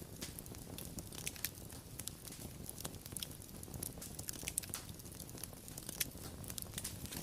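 Wood fire crackling, with frequent sharp irregular pops and snaps over a low steady rumble of the burning.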